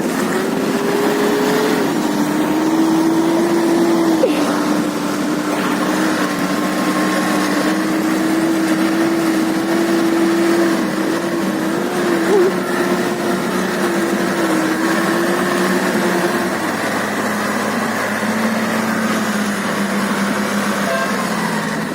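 Toyota Land Cruiser engine running steadily while driving off-road, its pitch holding with small wavers, then dropping lower about 17 seconds in.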